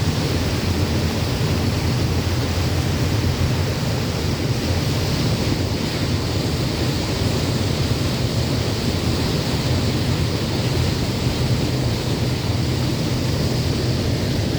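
Steady wind on the microphone over rushing sea water, with a low constant hum underneath.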